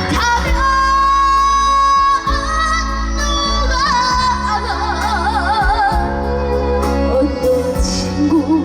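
Trot-style singing over a backing track: one long held note early on, then a melody sung with wide, heavy vibrato.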